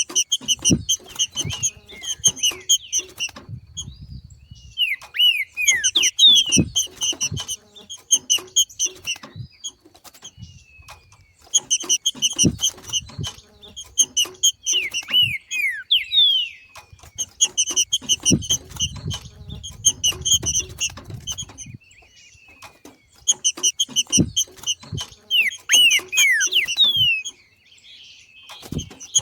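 Green-winged saltator (trinca-ferro) 'macheando': bouts of rapid chattering notes lasting a couple of seconds, repeated every few seconds, mixed with short downward-sliding whistles. This is the breeding-condition call that stirs other trinca-ferros to sing. Soft low thumps come between the bouts.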